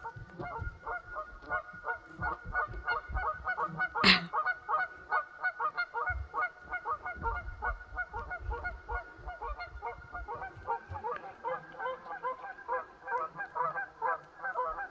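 A flock of geese honking noisily, many rapid calls overlapping without a break. A single sharp knock cuts through about four seconds in.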